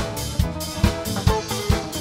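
Band playing an instrumental passage: a drum kit keeps a steady, fast beat of bass drum and snare, just over two beats a second, under sustained pitched instrument notes.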